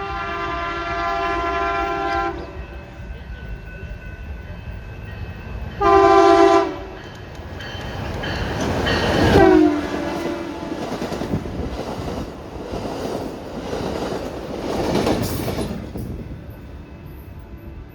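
Train horn sounding one long blast and then a short one about six seconds in, followed by the train passing with wheel clatter on the rails, loudest around nine seconds in.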